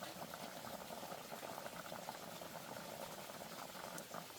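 Pot of water bubbling at a steady boil.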